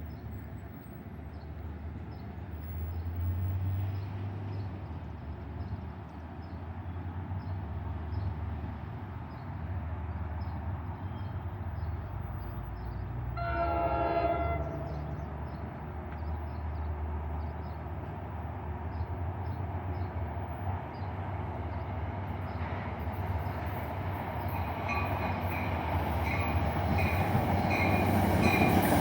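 Train approaching with a steady low locomotive rumble and one horn blast of about a second and a half midway through. It grows louder toward the end as a high wheel or brake squeal sets in.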